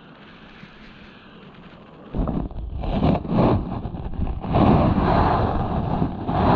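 Wind buffeting the microphone. It comes in suddenly about two seconds in as an uneven rumble and gets louder in the second half.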